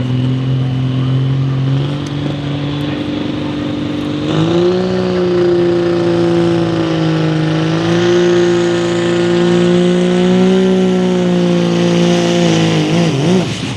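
Diesel 4x4 pickup engine running at full throttle under load while pulling the weight sled, its pitch stepping up twice early on and then holding high and steady. A high whistle climbs alongside through the first half. Near the end the engine drops off and wavers as the pull ends.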